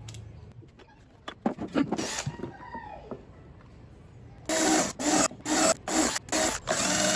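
Scraping and handling noises on hard plastic, then from about four and a half seconds in a power drill runs in a quick series of short bursts, drilling into a plastic car door panel to mount a dome tweeter.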